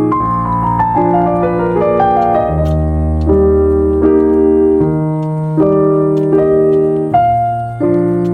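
Background piano music: held chords changing about once a second, with a falling run of single notes over the first two seconds.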